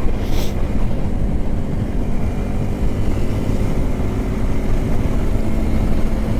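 Yamaha R15M's 155 cc single-cylinder engine running at a steady cruise while riding, mixed with wind and road noise on the camera mic. A short hiss about half a second in.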